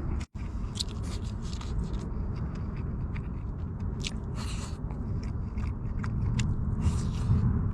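A steady low rumble with scattered scraping and clicking over it, most of the clicks sharp and short.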